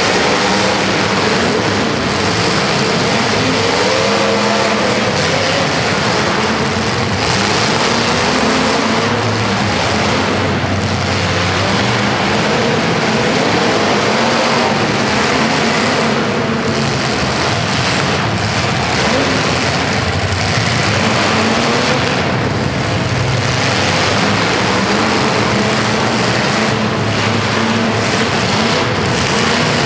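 Several vehicle engines running and revving at once, their pitch rising and falling unevenly over a constant loud din.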